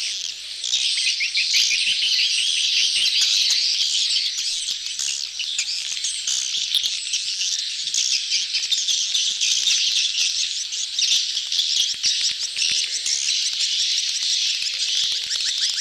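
A crowd of edible-nest swiftlets twittering together, a dense, steady, high-pitched chatter of many quick overlapping chirps. It is a swiftlet lure call of a colony in mating excitement, the kind played to draw swiftlets into a nesting house.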